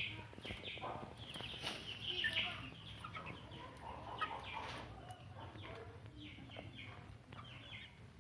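Hens and chicks clucking and peeping in a busy flurry of short calls, thinning out about halfway through.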